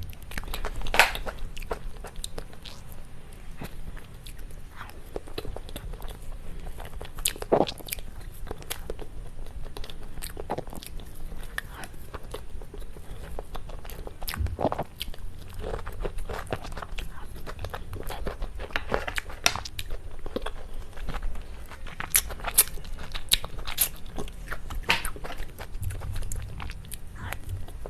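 Close-miked eating of cake: chewing and biting with irregular sharp, crisp clicks scattered throughout.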